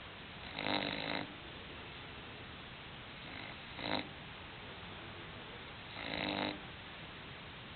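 English bulldog snoring: three snores about two and a half to three seconds apart, the middle one short, over a steady hiss.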